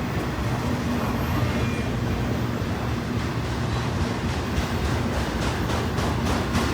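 Freight train passing: a steady rumble of rail cars rolling by on the track, with a low hum throughout.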